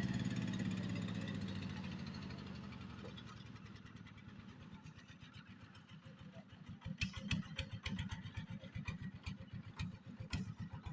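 Engine of the swamp-ploughing machine running steadily and fading away over the first few seconds. From about six seconds in, uneven low thudding with scattered clicks takes over.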